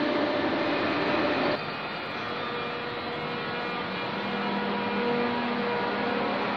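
Steady hum of electric trains standing in a station hall. A louder rumbling noise breaks off suddenly about a second and a half in, leaving a quieter hum with a few faint steady tones.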